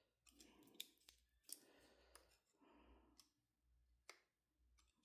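Near silence with a few faint, scattered clicks of small metal parts and a measuring tool being handled.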